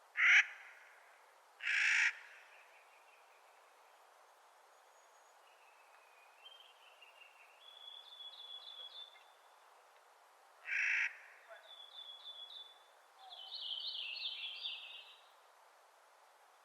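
Clark's nutcracker giving three short, harsh, grating calls: two close together at the start and one about eleven seconds in. Softer, rapid trilled chirping notes run in between and near the end.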